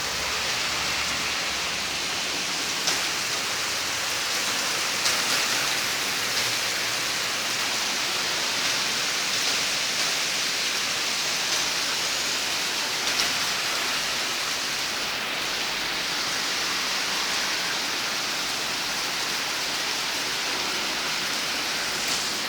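Heavy rain falling steadily as an even hiss, with a few sharper taps of drops here and there.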